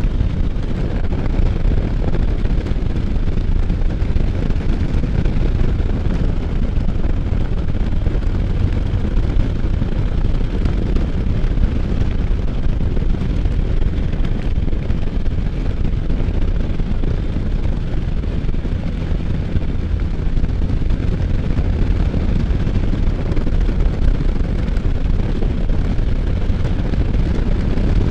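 Wind rushing over the microphone with the steady drone of a Can-Am Spyder F3's 1330 cc three-cylinder engine underneath, riding at speed through curves.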